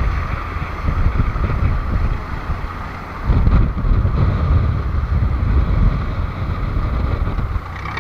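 Wind buffeting the microphone on a fishing boat at sea, heaviest from about three seconds in, over the boat's steady engine note.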